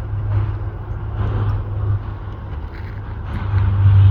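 Jet airliner taking off, its engines at take-off power: a steady low rumble with a noisy rush above it that swells toward the end.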